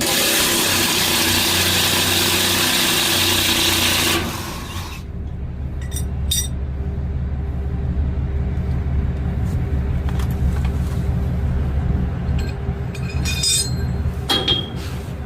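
A loud steady hiss for about the first four seconds, cutting off abruptly, over a vehicle engine idling steadily. A few light metallic clinks of tools follow during the trailer suspension repair.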